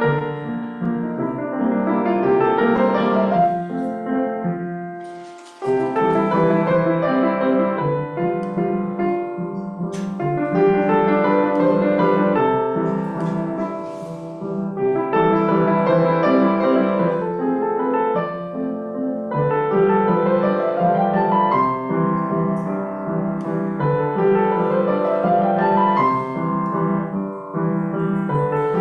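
Solo piano playing a gentle piece built on rising arpeggios that recur every few seconds. About four seconds in the playing fades away, then picks up again abruptly just before six seconds.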